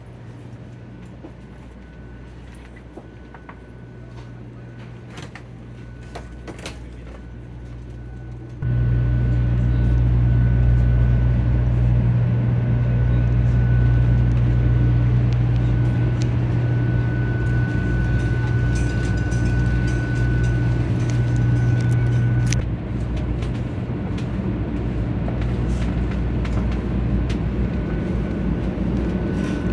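Steady interior hum of a stationary 500-series Shinkansen car, a low drone with a faint high whine over it. It steps up sharply about nine seconds in and drops back a little after twenty-two seconds, with a few light clicks in the quieter first part.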